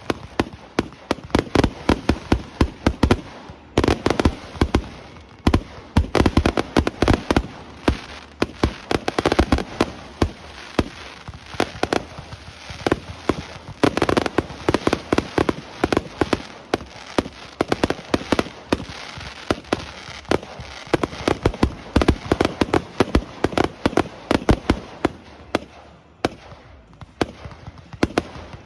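Fireworks display: rapid, dense volleys of sharp bangs and crackling reports, many a second, with a short lull near the end.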